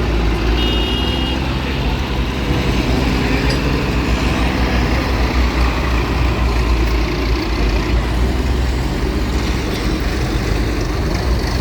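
Tractor and lorry engines running steadily, a continuous deep rumble with no break.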